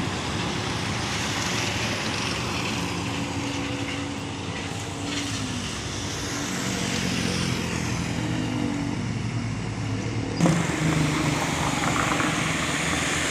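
Heavy trucks driving past in a convoy, with a steady mix of engine and tyre noise; an engine's pitch falls as a truck goes by. The sound changes abruptly about ten seconds in.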